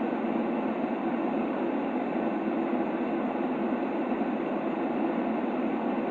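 Steady white-noise track for a baby's sleep: an even, unchanging rushing hiss, dull rather than bright, with no rhythm or breaks.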